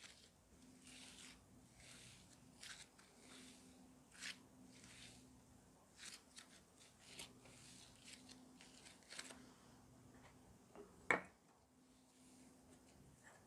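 Slime being squeezed, stretched and folded by hand: faint crackling, squishy sounds repeating every second or so, with one sharper snap about eleven seconds in.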